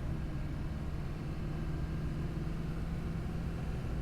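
Steady drone of a 2004 GMC Sierra 2500 HD's Duramax 6.6 L V8 turbo-diesel and road noise, heard from inside the cab while the truck is under way.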